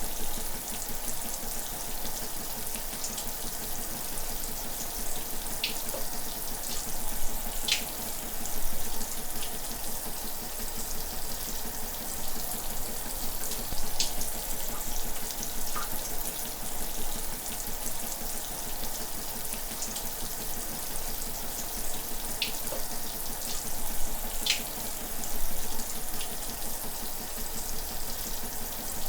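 Shower running steadily, a continuous hiss of spraying and splashing water, with a few sharper splashes or drips standing out now and then.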